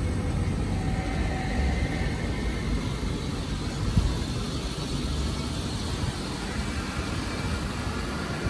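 Steady low rumble of motor vehicles, with one brief knock about four seconds in.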